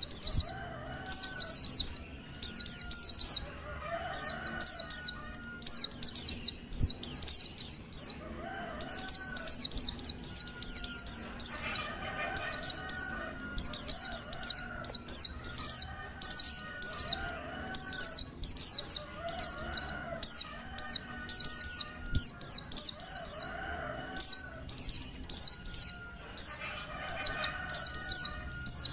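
Female white-eye (pleci) calling: quick bursts of thin, high, falling notes, about one burst a second, repeated over and over. This is the call played as a lure to get male white-eyes to sing.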